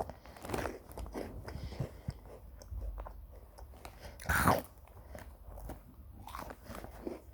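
Someone biting and chewing crunchy crackers close to the microphone: a run of small crunches, with one louder crunch about four seconds in.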